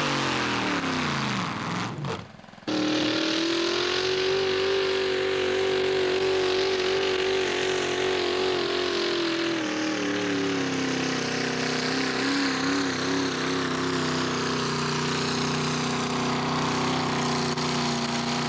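Mini-modified pulling tractor engine at high revs: it winds down, cuts out briefly about two seconds in, then comes back loud, rises and holds a high steady note, and drops to a lower steady pitch about ten seconds in.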